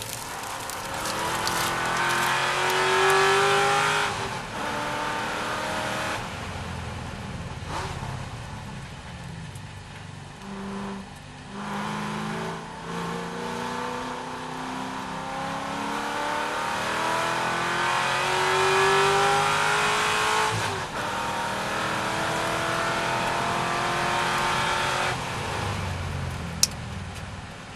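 C6 Corvette's V8 engine at racing speed, its pitch climbing under hard acceleration and then falling away sharply several times at gear changes and lifts for corners. A single sharp click near the end.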